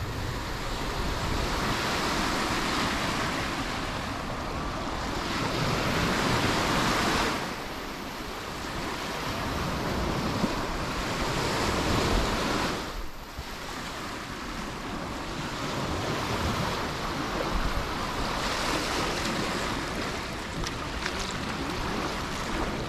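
Sea waves washing onto the beach: a steady wash of surf that builds and then falls away sharply every several seconds, with some wind on the microphone.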